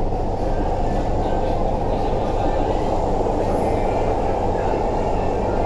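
MTR TML C-train heard from inside the carriage while running along the line: a steady, even running noise of wheels on rail and traction equipment.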